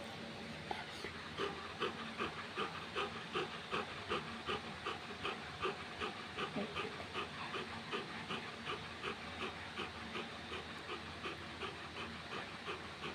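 Golden retriever panting rapidly and evenly, about three breaths a second, starting about a second in.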